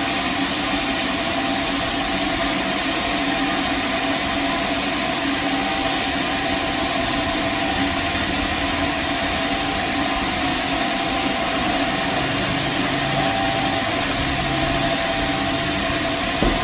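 Sawmill machinery running steadily: a constant engine hum with a hiss over it, and one brief knock near the end.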